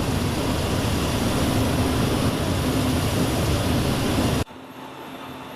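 Jet engines of a C-17 transport aircraft running, a loud steady rushing noise that cuts off abruptly about four and a half seconds in, leaving a quieter hum with a steady low tone.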